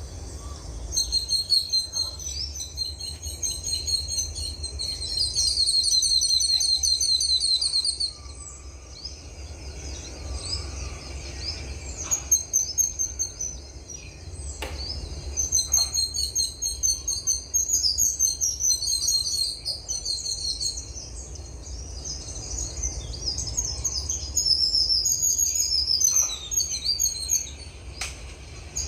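Songbirds chirping and singing, high-pitched, with fast rapid-fire trills in the first several seconds and a busy mix of overlapping chirps later on, over a steady low rumble.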